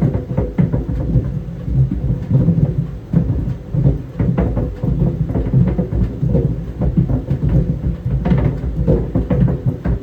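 Tennis balls tumbling in a running clothes dryer, thudding irregularly against the drum several times a second over the machine's steady low hum.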